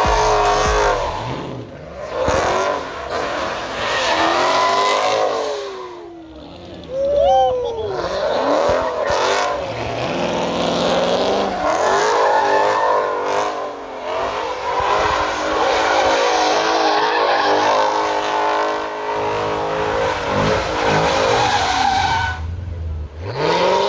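Car engines revving hard, the pitch climbing and falling again and again, with tyres squealing and skidding as cars spin their wheels.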